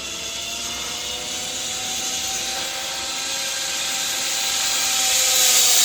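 Zipline trolley pulleys running along the steel cable: a steady whine with a rushing hiss, rising slightly in pitch and growing louder as the ride speeds up.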